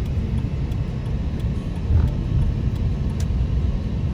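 Road noise inside a moving car: a steady low rumble of tyres and engine, with a brief louder thump about two seconds in.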